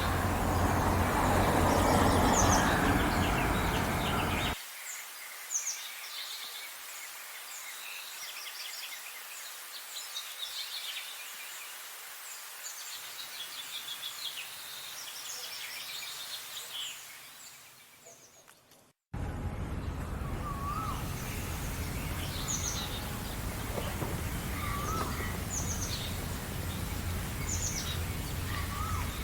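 A chorus of small songbirds chirping and singing over a steady low background rumble. The rumble cuts off abruptly about four seconds in, leaving the birds alone. About two-thirds of the way through, everything fades to a brief silence, then the chorus resumes suddenly with the low rumble behind it.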